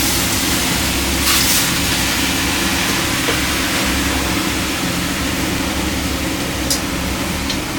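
Water thrown on the hot sauna stove's stones hissing into steam: a loud steady hiss that starts suddenly, with a louder surge about a second in, over the low drone of the sauna boat's engine.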